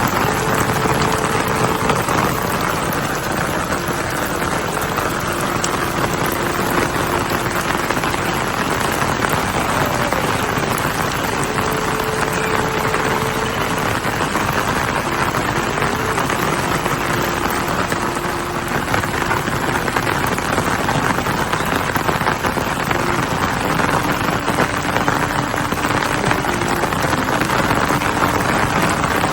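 Steady heavy rain, an even hiss with no let-up. Faint held tones sound underneath every few seconds.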